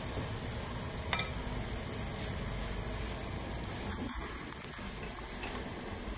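Small cubes of seasoned chicken breast sizzling steadily as they fry in coconut oil in a pan, with a single click about a second in.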